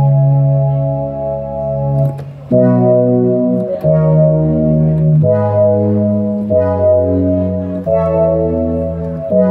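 Yamaha CK61 stage keyboard playing held chords on a wind-instrument voice. One chord sounds for about two seconds, then after a short break a slow run of new chords follows, changing about every second and a half.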